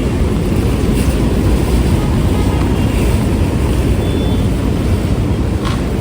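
Steady low rumble of traffic on a rain-soaked, flooded street, with a brief short tone about four seconds in and a sharp click near the end.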